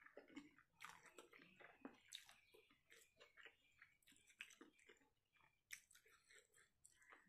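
Quiet chewing and wet mouth sounds, many small smacks and clicks, from someone eating fish curry and rice by hand, with soft squishes as the fingers pick at the fish.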